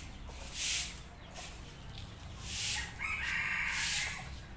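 Domestic chickens, with a rooster crowing about three seconds in. Short rushing bursts of noise come every second or two.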